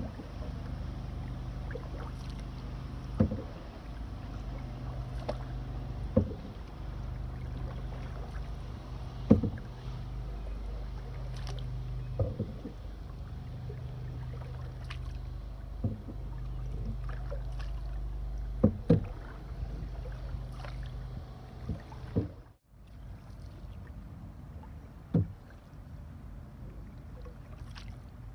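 Canoe being paddled: a sharp knock with each paddle stroke, about every three seconds, over steady low water and wind noise. The sound cuts out for a moment about three quarters of the way through.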